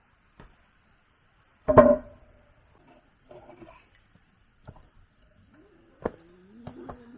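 Wood being struck: one loud, sharp knock about two seconds in that rings briefly, followed by scattered lighter knocks and clicks. Near the end a faint wavering call glides up and down.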